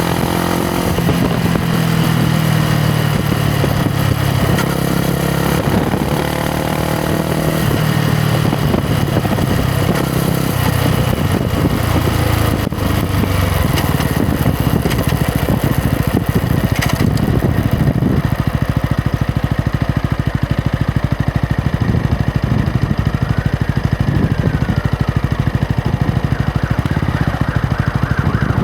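Yamaha MT-125's single-cylinder four-stroke engine running under way, its pitch rising and falling with throttle and gear changes. About two-thirds through, the wind noise fades and the engine settles into a slow, steady beat.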